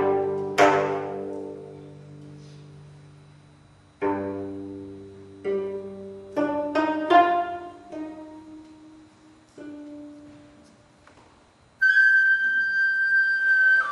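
Gayageum ensemble plucking sparse, ringing chords that decay slowly, with a quick run of notes in the middle; near the end a sogeum bamboo flute comes in on a long held high note.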